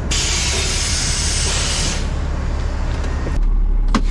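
Dump truck's air brake system letting out a loud hiss of air for about two seconds, over the steady hum of the idling diesel engine. Near the end the engine's low rumble grows louder.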